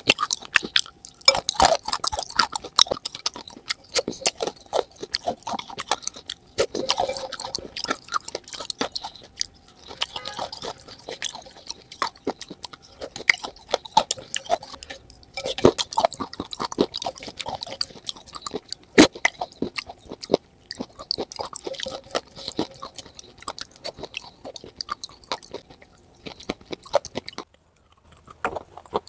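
Close-miked chewing of crunchy clay in a creamy white paste: many quick, sharp crunches and wet clicks, with a short pause near the end.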